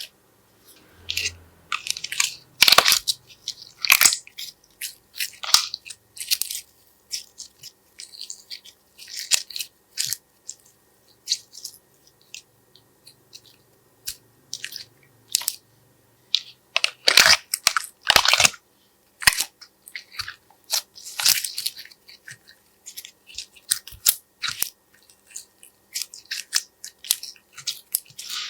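Slime being pressed, stretched and mixed by hand, giving irregular sticky crackles and popping clicks.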